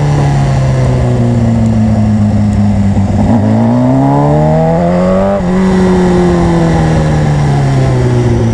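Sport motorcycle engine heard from the rider's seat. The engine note falls as the bike slows, then rises under throttle for about two seconds. About five seconds in the pitch drops sharply, as at a gear change, and then falls slowly again as the bike slows.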